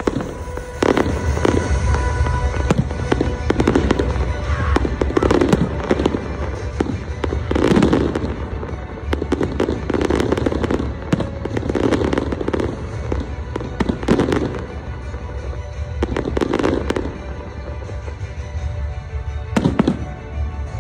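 Festive fireworks salute: shells bursting in a long run of sharp bangs and deep booms, about one every second or two, over music playing in the background.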